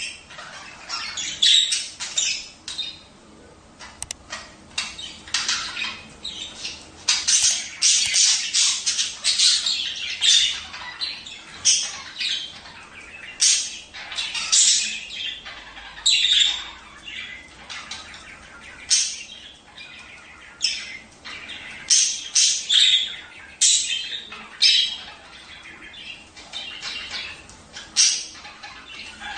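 Budgerigars chattering and squawking, with many short, high calls coming quickly and irregularly. It is the kind of budgie chatter played to caged birds to stimulate breeding.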